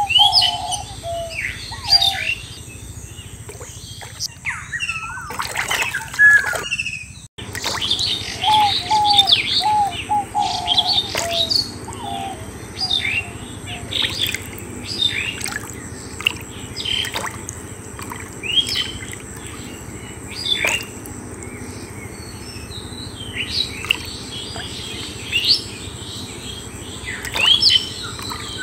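Birds chirping and calling, with many short rising and falling chirps throughout and a lower repeated call in short runs near the start and about eight seconds in. The sound drops out briefly about seven seconds in.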